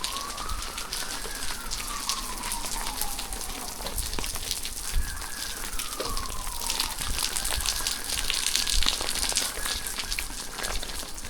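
Steady rain with many drops pattering. Under it a siren wails, rising and falling slowly in long sweeps and then holding a steady pitch before it stops near the end.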